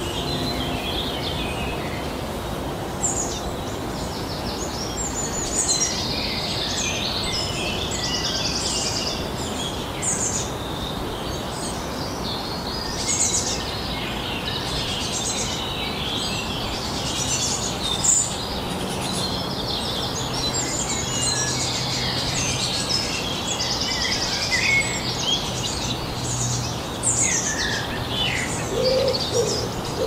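Several wild songbirds singing at once, an overlapping mix of short high trills, whistles and chirps. Near the end a low hooting call begins.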